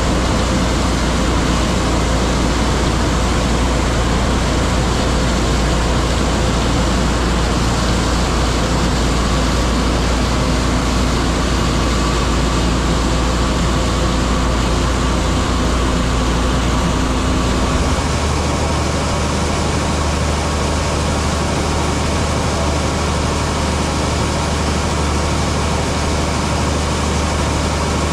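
Heavy diesel farm machinery running steadily at working speed: a loud engine drone with a constant mechanical din. About two-thirds of the way through, the low drone shifts up a little in pitch and the sound gets slightly quieter.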